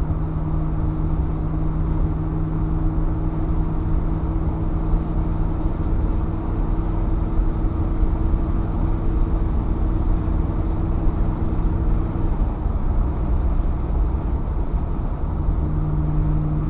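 1964 Impala SS's 327 V8 running at a steady cruise through a 2.5-inch exhaust with glass-pack-style mufflers, a steady drone over a low rumble. About twelve seconds in the steady drone drops away, and it comes back a few seconds later.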